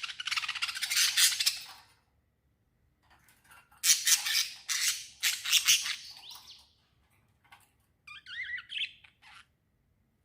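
Small birds chirping and chattering in two dense, loud spells, then a shorter run of clearer, pitched chirps near the end.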